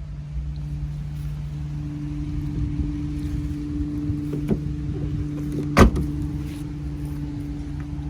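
Dodge Charger Scat Pack's 392 (6.4-litre) Hemi V8 idling with a steady low hum. About six seconds in there is a single loud thump, a small click coming shortly before it.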